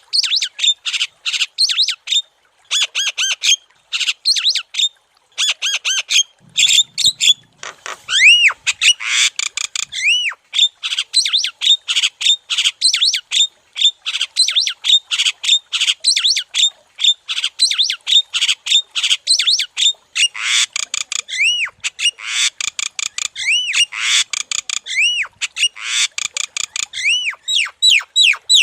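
Javan myna (jalak kebo) singing vigorously: a fast, unbroken run of harsh squawks and chattering notes, with a few whistled notes that rise and fall, and short pauses about two and five seconds in.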